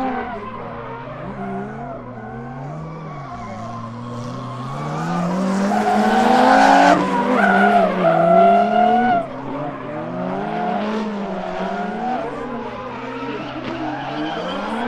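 Drift cars on track, the engines revving up and down through the slides over a hiss of tyre screech. The sound swells to its loudest about two-thirds of the way through as the cars come close, then drops off suddenly.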